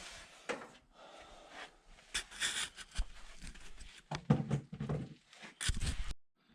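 Irregular metal knocks and scrapes of hand tools on a seized LQ4 6.0 V8 as it is worked to try to turn it, with a short grunt of effort. The engine stays stuck solid: its pistons are seized in rusty, water-filled cylinders.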